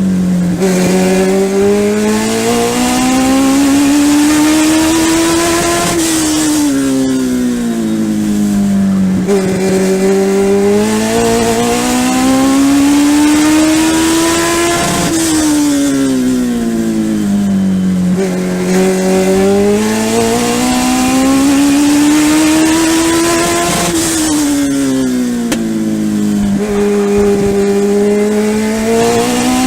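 Legend race car's Yamaha four-cylinder motorcycle engine, heard from inside the car, at racing speed around a short oval. Its pitch climbs smoothly for several seconds and then falls off quickly, three times, about every 9 s: full throttle along each straight, lifting off into each turn.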